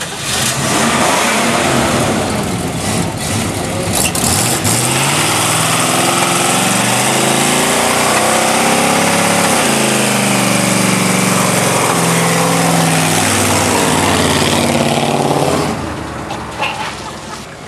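Chevrolet El Camino's engine held at high revs through a burnout, the revs rising and wavering while the spinning rear tyres hiss and smoke. About a second before the end, the engine drops off the throttle and the noise falls away sharply.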